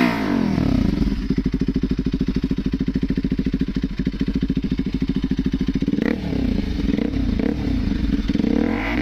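Bajaj Pulsar RS200's single-cylinder engine through an aftermarket M4 exhaust: the revs drop to a pulsing idle, which holds for about five seconds. A quick throttle blip follows, then a few smaller ones, and the revs start to climb again near the end.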